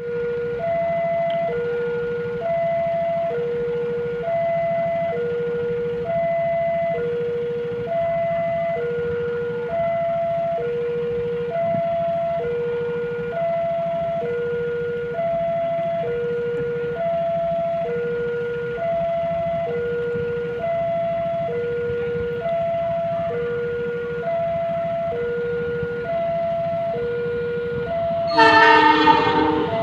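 Electronic two-tone railway warning alarm sounding steadily, switching between a lower and a higher pitch about once a second as the train approaches. Just before the end, the Argo Lawu locomotive's horn blows loudly over it.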